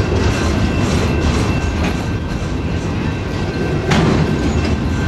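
Train of flatcars carrying highway trailers rolling past at close range: a steady rumble of steel wheels on the rails with clicking over the rail joints and a faint steady high whine. A single sharp knock comes about four seconds in.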